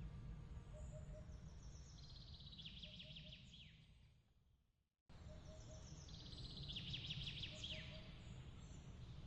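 Soft bird chirps and trills over a low steady rumble. About five seconds in, the whole track fades to silence and then starts again abruptly, where a looped ambience recording restarts.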